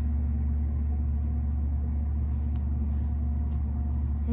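Steady low hum of an idling car engine heard from inside the cabin, an even drone that does not change.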